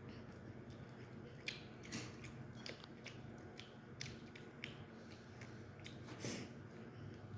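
Close-miked chewing and biting of chicken, with scattered short wet smacks and clicks from the mouth.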